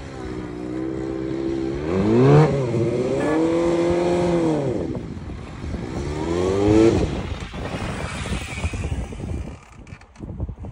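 Suzuki GSX-R750 inline-four engine revving in short throttle bursts while the motorcycle rides a tight cone course. The revs rise sharply about two seconds in, hold, then drop. They rise again briefly and fall away as the bike moves off.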